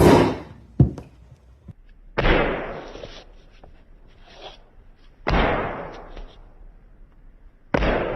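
Leatherworking sounds: a sharp knock and a smaller one just after it, then three separate strokes, each starting suddenly and fading away over about a second.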